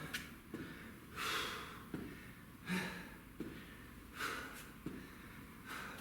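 A man breathing hard through sharp, rhythmic breaths, about one every second and a half, while working through cross-body mountain climbers. Short light thumps fall between the breaths.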